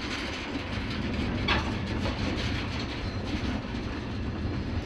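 Passenger cars, locomotive and hopper cars rolling along the track after a train-to-train collision: a steady rumbling, rattling noise from the wheels and cars, with one brief sharp clank about a second and a half in.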